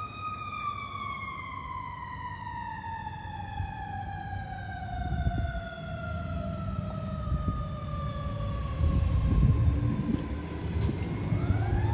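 Fire truck siren whose wail falls slowly and steadily for about ten seconds, then starts to climb again near the end, over the rising rumble of the truck's engine as it comes close.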